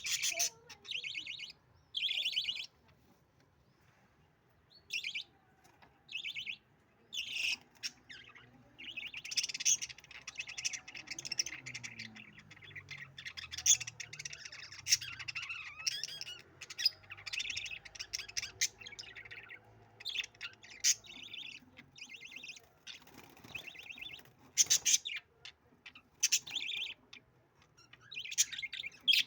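Budgerigars chirping and chattering in short high bursts, then in a near-continuous warbling stretch through the middle.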